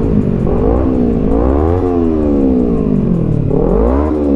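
A vehicle engine revving, its pitch climbing and dropping several times, with one long fall in the middle before it rises again near the end.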